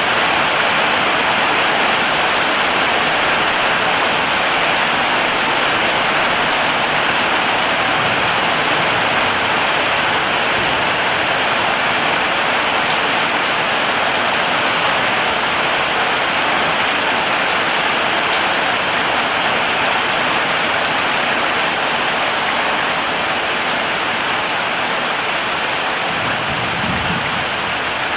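Heavy rain falling steadily, a dense even hiss of raindrops, with a brief low rumble near the end.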